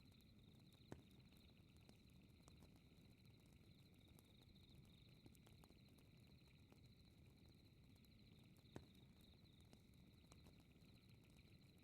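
Faint fireplace crackling over a low steady rumble, with two sharper pops, about a second in and near the end. Behind it runs a steady, rapidly pulsing high chirping trill of night insects.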